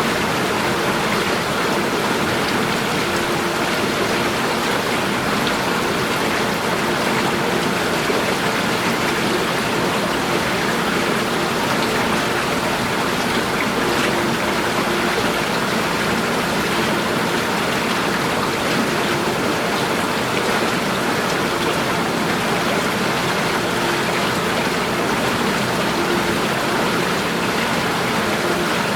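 Running water in a steady, even rush, like a stream or small cascade.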